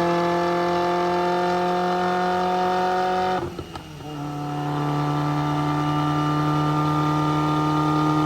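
Car engine held at a steady high rpm on a chassis dyno, one unchanging tone. About three and a half seconds in it cuts out briefly, then comes back and holds steady at a slightly lower pitch.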